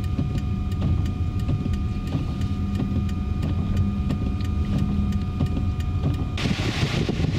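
Car driving on a snow-covered road: a steady low road and engine rumble with a faint whine and light regular ticking. About six seconds in, a hiss comes in over it.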